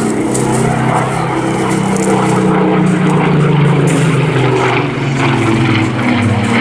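Spitfire's Rolls-Royce V12 piston engine running on a display pass: a steady drone whose pitch slides gently down through the middle as the aircraft goes by.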